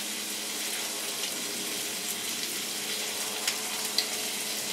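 Chicken wings sizzling on a hot griddle: a steady hiss with two sharp pops of spattering fat about three and a half and four seconds in.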